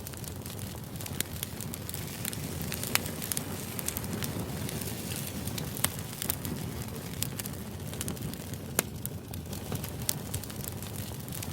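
Steady low background noise with sharp crackles and clicks at irregular intervals, a crackling ambience track.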